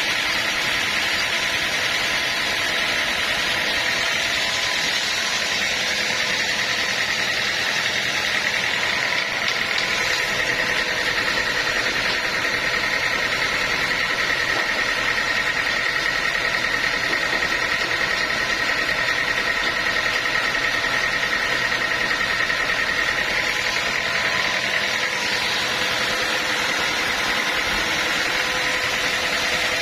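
Sawmill machinery running steadily, a high-pitched whine over a constant mechanical noise, with no break or change in load.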